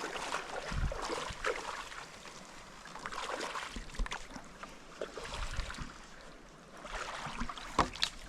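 Stand-up paddle strokes dipping and splashing in river water at an irregular pace, with a few sharper knocks, over a low wind rumble on the microphone.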